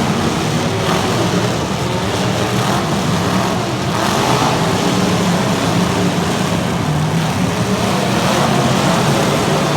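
Demolition derby cars' engines running and revving together, loud and steady, under a wash of noise.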